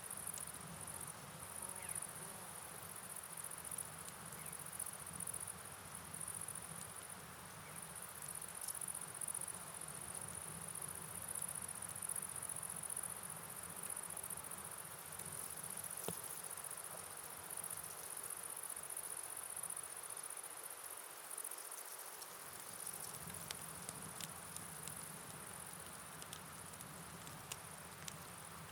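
Night ambience: a steady high-pitched insect chorus, like crickets, over a soft even hiss of rain and flowing river water, with scattered faint ticks.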